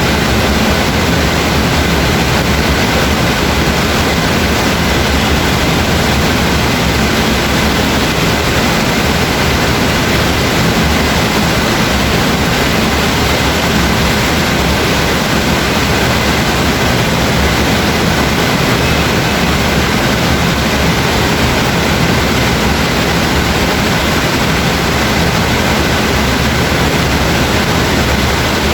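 Heavy rain falling, a loud steady hiss that does not change.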